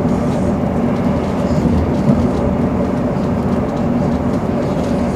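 Passenger train running at speed, heard from inside the carriage: a steady rumble and drone of wheels on the rails and the running train, with one brief knock about two seconds in.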